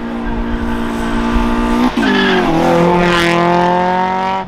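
Car engine held at high revs while the tyres spin and squeal. About two seconds in the revs drop sharply, then climb steadily again as the car accelerates away. The sound cuts off suddenly near the end.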